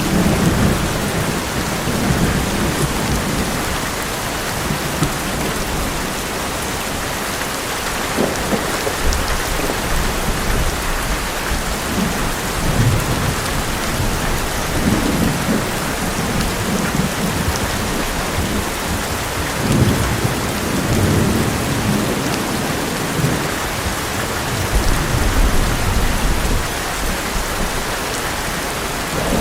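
Heavy rain pouring steadily onto an old metal roof, with thunder rumbling low again and again through the downpour.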